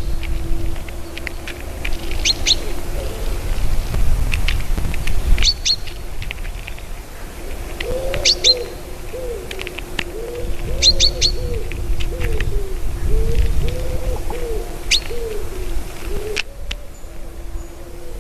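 Birds chirping in short high pairs and triples, joined midway by a run of low, arched cooing notes repeated about twice a second for several seconds. Under it runs a low wind rumble.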